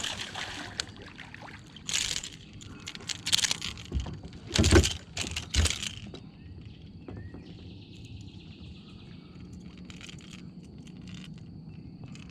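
Irregular splashing and knocking while a small hooked bass is landed at the side of a kayak, loudest about halfway through the first six seconds. Then it goes quieter, with a few bird chirps.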